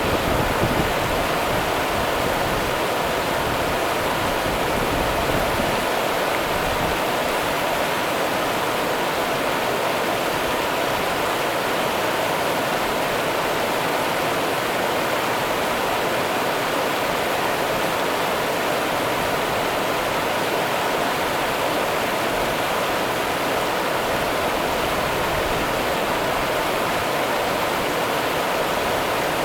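Rio Grande river water running: a steady, even rush of flowing water, with a deeper low rumble in the first few seconds.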